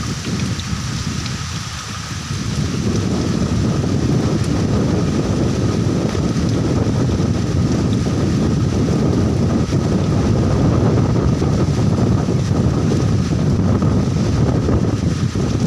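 Heavy rain falling with gusting wind buffeting the microphone; the low rumble of the wind is the loudest part, easing briefly about a second in before building again.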